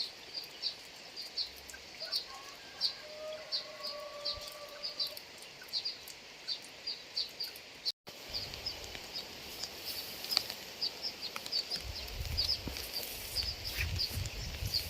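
A small animal gives short high chirps about twice a second over a steady hiss of rain. The audio drops out briefly about eight seconds in; after that the hiss is stronger and the chirps come faster. Near the end a low rumble builds.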